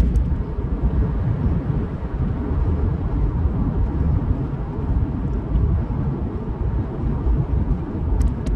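Steady low rumble of a vehicle being driven, heard from inside: engine and tyre noise on the road, with two brief clicks near the end.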